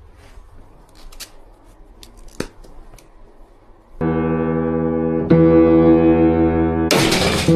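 A few faint handling clicks, then piano notes sounding and held from about four seconds in, with a new note struck about a second later. A sharp, noisy crash comes near the end.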